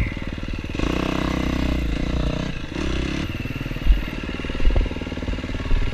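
KTM dirt bike engine running, opening up about a second in for a short burst of throttle and then easing back to a lower, steady note. A few short knocks and clatter come late on.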